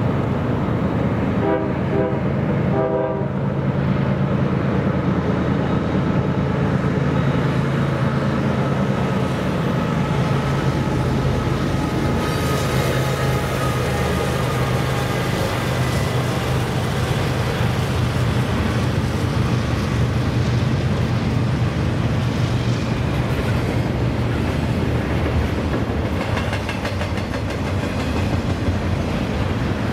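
CSX freight train passing: GE Evolution-series diesel locomotives run by with a steady low engine drone, then double-stack container cars roll past with wheel rumble and clatter. About two seconds in there is a short run of rapid ringing tones.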